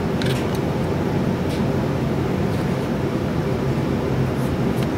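Steady low droning background noise of a running machine, with a few faint clicks as small motor parts are handled.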